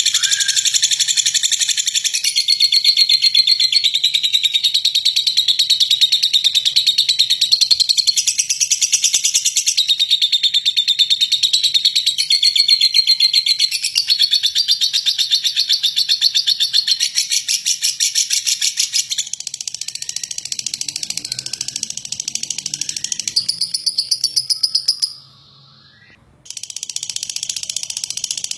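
Lovebird singing a long, rough, very rapid chattering trill (ngekek), high-pitched. About 25 seconds in it stops for about a second and a half, then starts again more softly.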